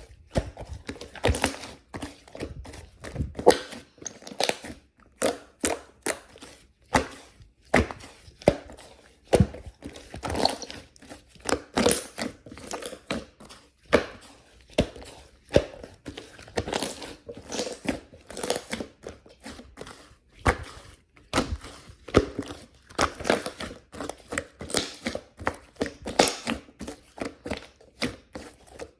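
Objects being handled with irregular light taps and knocks, roughly one to three a second, with some crinkling.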